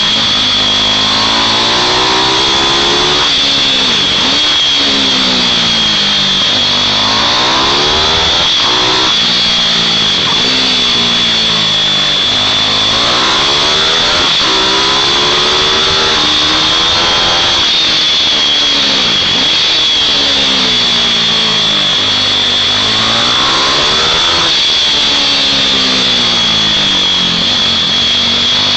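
Several small mini-bike engines racing around a track, revving up and dropping back every few seconds as the bikes accelerate and slow for corners. A steady high-pitched whine runs underneath throughout.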